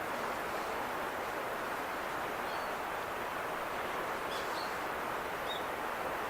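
Steady outdoor rushing noise, with a few faint, short, high bird chirps from about two and a half seconds in.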